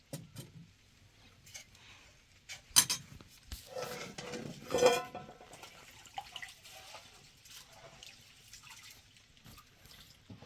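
Scattered knocks and clinks of objects being handled: a sharp knock about three seconds in, then a clattering run with some ringing around five seconds in.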